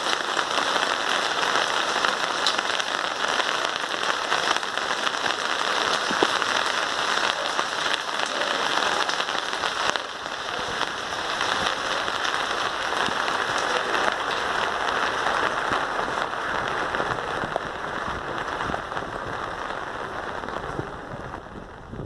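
Rain falling on hard surfaces, a dense steady hiss of many drops. It dips slightly about ten seconds in and tapers off near the end.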